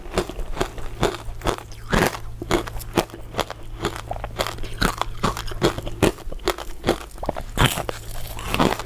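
Close-up crunching and chewing of hard, crisp crystal ice dessert pieces: a quick, irregular run of sharp crunches, several a second.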